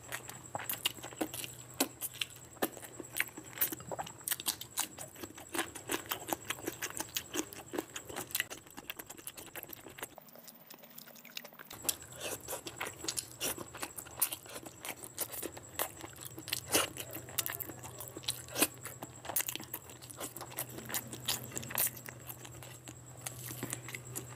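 Close-miked eating by hand: wet chewing, lip-smacking and sharp mouth clicks as rice and curry are eaten, over a faint steady hum. The sound cuts out for about a second and a half around ten seconds in.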